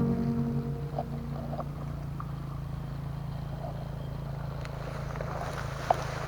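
A small engine running steadily with a low, even hum, and a few sharp clicks near the end.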